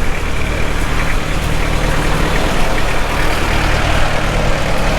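A motor vehicle engine running close by, a steady low hum under continuous road and traffic noise.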